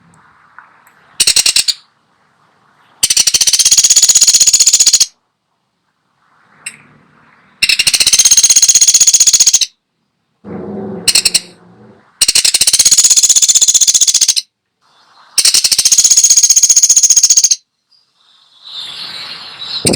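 A woodpecker calling in long, very fast rattling trills, each lasting about two seconds, repeated every few seconds with short silences between. A briefer, lower sound comes about halfway through.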